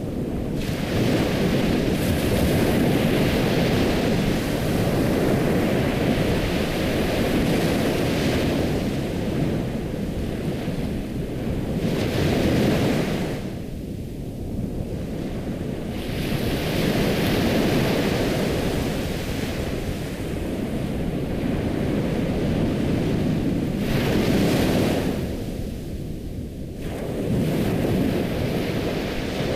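Ocean waves washing ashore in a steady rushing surf, each surge building for several seconds and then ebbing into a short lull about every twelve seconds.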